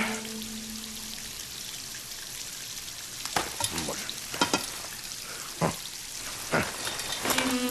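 Water hissing steadily from a tap, with a series of sharp knocks and clatters in the second half.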